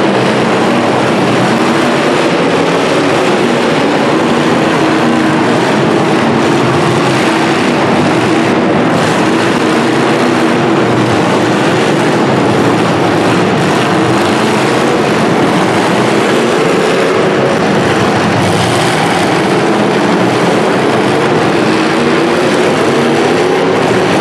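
Demolition derby car engines running loud and steady, their pitch wandering up and down as they rev.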